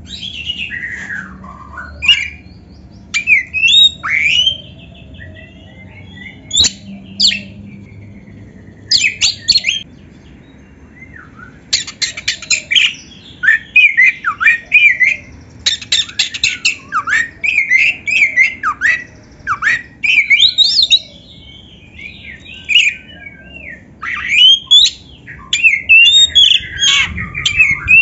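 Oriental magpie-robin (kacer) singing in loud, separate phrases of fast varied whistles mixed with harsh rasping notes, with short pauses between phrases.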